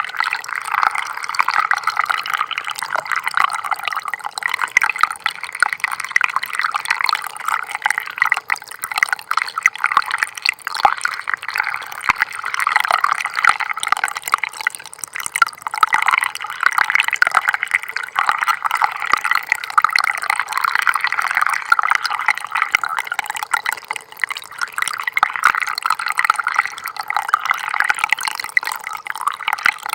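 A small stream of water trickling and splashing steadily, a continuous babbling that flickers with many tiny drips and splashes.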